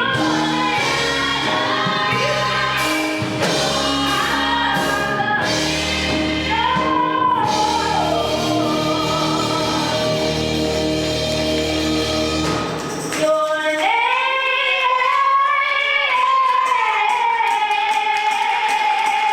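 Live gospel song: singing over a band with a deep bass line. About two-thirds of the way through the band drops out, and the voice carries on almost alone with runs, ending in a long held note.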